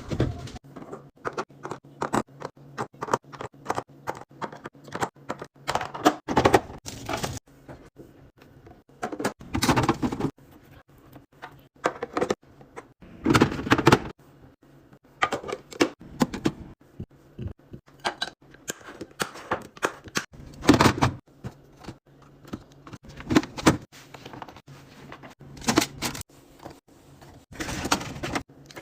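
Handling noise from restocking a fridge: plastic and glass containers and packaging set down, clicked and knocked in quick irregular taps, with several longer rustling or sliding passes. A faint steady low hum runs underneath.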